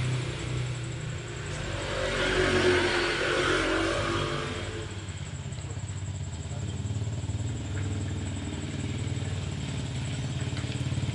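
BMW E36's M50/M52 inline-six idling steadily while it is being checked for a misfire. Between about two and five seconds in, a louder engine sound swells and then fades over it.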